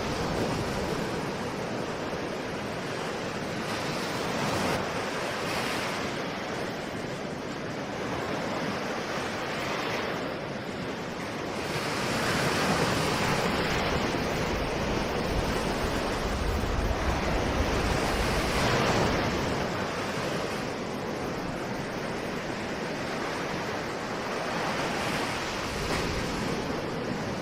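Ocean waves breaking and washing on a shore, rising and falling in slow swells every few seconds, with some wind noise on the microphone.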